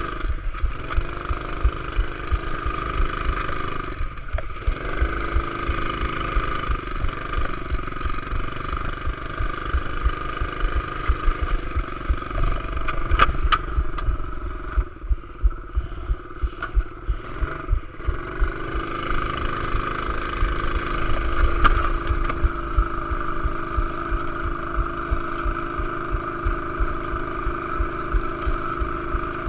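Pit bike engine running under throttle, its note dropping and then climbing again several times, about half a second, four seconds and eighteen seconds in.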